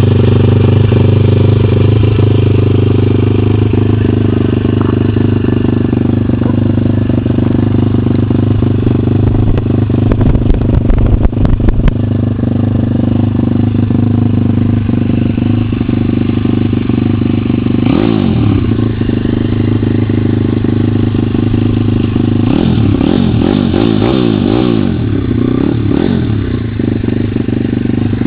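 150 cc pit bike single-cylinder engine running steadily at idle, with a brief rev about two-thirds of the way in and several quick throttle blips after it. A burst of knocking clatter sounds near the middle.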